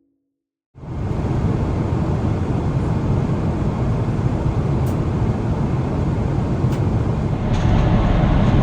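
Steady rushing cabin noise inside a Boeing 777-300ER airliner, from its engines and airflow. It starts abruptly about a second in, after a moment of silence, with a few faint ticks later on.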